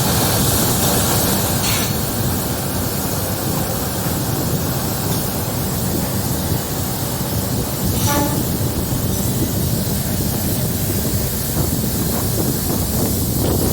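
Diesel-electric multiple unit (DEMU) train running, a steady loud rush of rail and wind noise. There is a brief tone, like a short horn toot, about eight seconds in.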